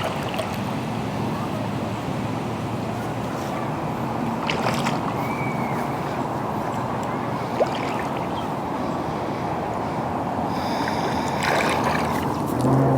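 Shallow lake water lapping and sloshing at the shore, a steady rush with a few faint clicks.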